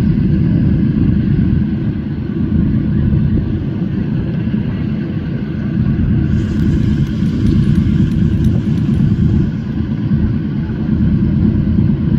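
The twin Pratt & Whitney R-1830 Twin Wasp radial engines of a C-47 Dakota running steadily with a deep, uneven rumble. About six seconds in, a hiss with faint clicking joins for a few seconds, then fades.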